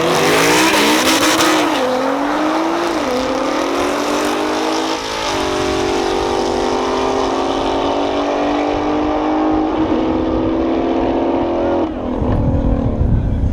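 Race car engines accelerating hard on a drag strip, rising in pitch and dropping back several times through the gear changes, then holding a steady high drone. Near the end this gives way to a low, wind-buffeted rumble.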